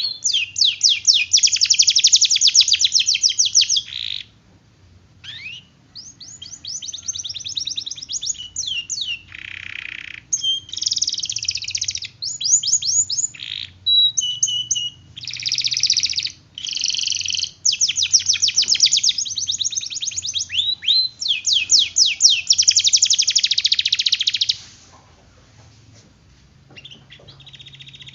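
Domestic canary singing in long, rapid rolls: strings of fast repeated high chirps and trills, broken by short pauses between phrases and a longer pause near the end.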